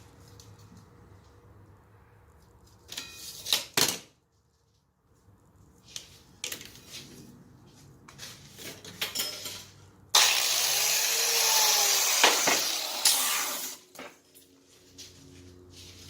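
Scattered clinks and knocks of metal being handled, then a power tool cutting metal stock: a loud hiss that starts suddenly about ten seconds in and lasts about three and a half seconds.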